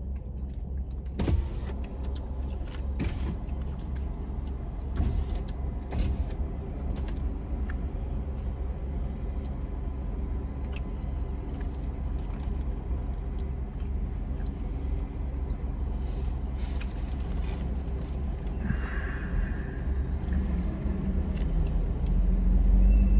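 Steady low vehicle rumble, like a car engine running, with scattered short clicks and a brief hiss about nineteen seconds in. The rumble grows louder near the end.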